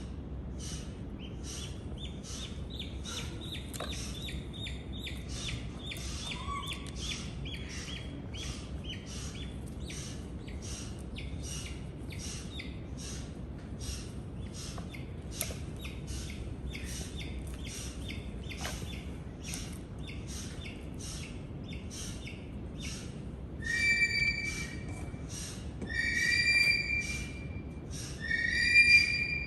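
A bird chirping rapidly and steadily, about two short high notes a second, then three louder, ringing calls near the end.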